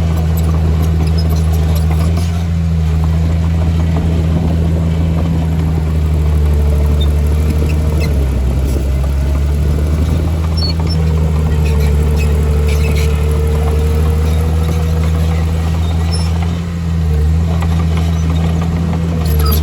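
Heavy diesel engine of earthmoving machinery running steadily at a constant low pitch, with a faint whine above it and brief dips in level about halfway through and again near the end.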